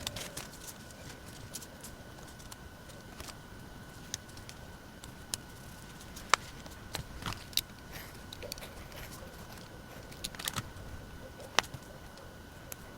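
Desk work with stationery: scattered sharp taps and clicks, a dozen or so spread unevenly, the loudest about six seconds in and near the end, over a faint steady high hum.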